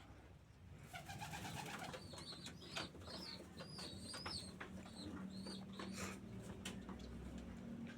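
Domestic pigeons cooing and pecking at feed, with a run of sharp clicks and short high squeaks from about two seconds in.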